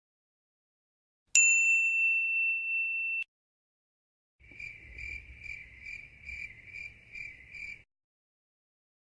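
A single bright ding sound effect about a second in, ringing on one steady high note and then cut off abruptly after about two seconds. After a pause comes a cricket-chirp sound effect: a high chirp pulsing two to three times a second for about three seconds over a faint low rumble, the stock "awkward silence" crickets.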